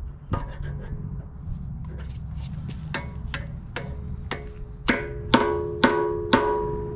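Hammer striking steel to drive a part out of a John Deere 35D excavator, each blow leaving a metallic ring. Lighter taps come first, then four harder ringing blows about half a second apart near the end.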